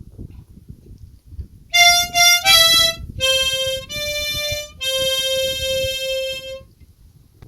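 A short melodic phrase played on a reedy wind instrument: three quick higher notes, then lower notes ending on a long held low note, lasting about five seconds. A faint low rumble runs underneath.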